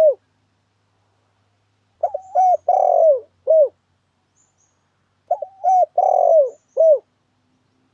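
Spotted dove (tekukur) cooing, played as a lure call: two full coo phrases about three seconds apart, each a few short notes around a longer, falling middle note, with silence between.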